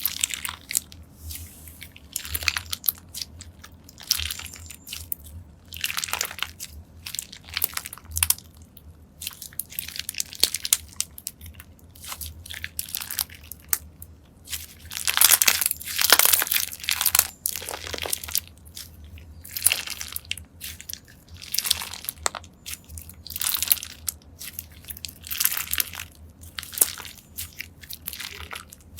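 Slime being handled and pressed by hand, giving irregular crunching and crackling bursts, with the longest, loudest crunching about halfway through.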